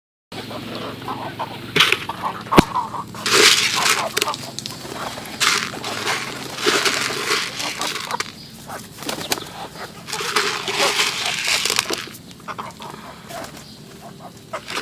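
Domestic pigeons moving about, with repeated bursts of rustling and flapping noise and a sharp crack about two and a half seconds in.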